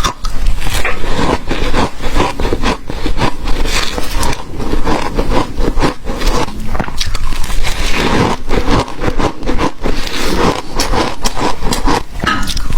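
Ice being chewed close to the microphone: a dense, continuous run of sharp cracks and crunches.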